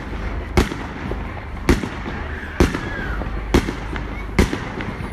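Aerial fireworks bursting in a steady run of sharp booming bangs, about one a second, over a low rumble.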